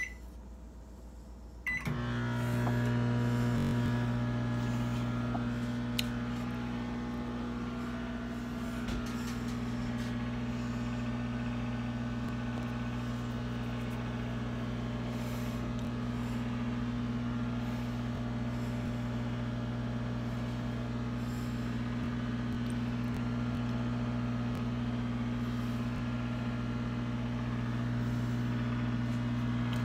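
Microwave oven keypad beeps once, then the oven starts and runs with a steady hum while it heats a mug brownie for one minute.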